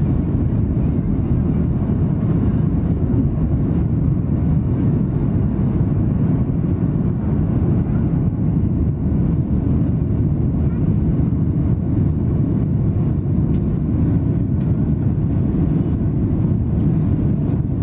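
Boeing 737-800's CFM56-7B engines and the airflow over the fuselage, heard from inside the passenger cabin as a loud, steady low rumble.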